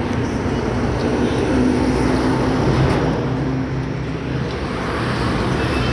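A motor vehicle's engine running steadily, a low drone over road and traffic noise that swells slightly partway through.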